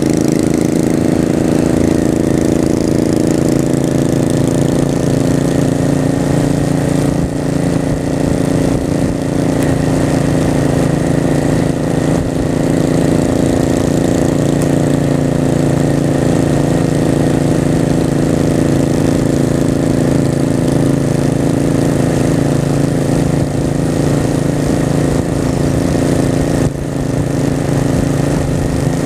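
Honda Shadow V-twin motorcycle engine running under way, its pitch holding fairly steady with small rises and falls and a brief drop in loudness near the end.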